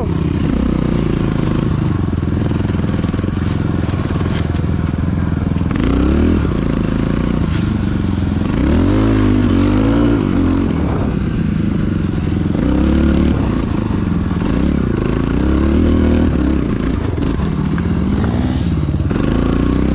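Dirt bike engine running under load, its pitch rising and falling again and again as the rider revs and shifts.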